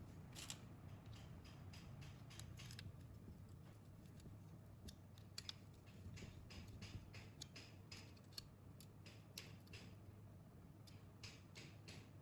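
Faint, irregular light clicks and ticks, a couple of dozen scattered unevenly, over a low steady hum.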